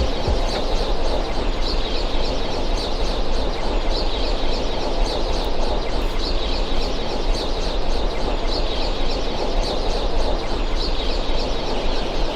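Live electronic noise music: a dense, steady wash of synthesized noise over a low bass hum, with a stream of short, bird-like chirps repeating about three times a second.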